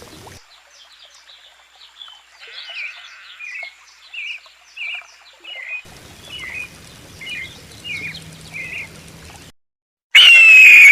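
A bird calling a series of short, clear chirps, each a quick downward note, one or two a second. Near the end a sudden, much louder shrill cry starts.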